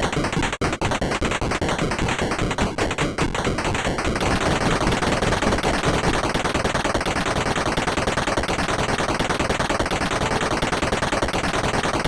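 Fast, even percussive taps that about four seconds in run together into a dense, continuous roll.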